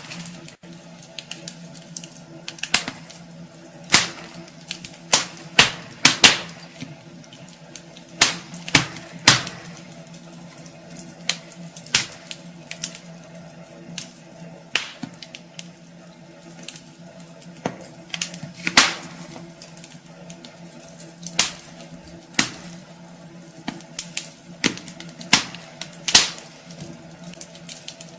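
Wood fire crackling in a fireplace: irregular sharp pops and snaps from the burning logs, a few every couple of seconds.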